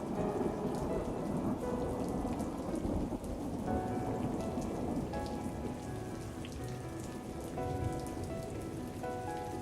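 Steady rain falling, with a low rumble of thunder that eases off over the first few seconds. Soft music with sustained notes comes in under the rain about four seconds in.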